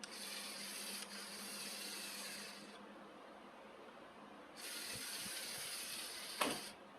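Two bursts of hissing spray, each two to three seconds long with a pause between them, and a sharp knock near the end of the second burst.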